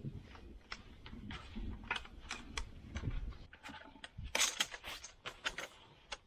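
Scattered light clicks and rustling as hose wraps are fitted by hand around hydraulic hoses, with a short louder rustle about four seconds in.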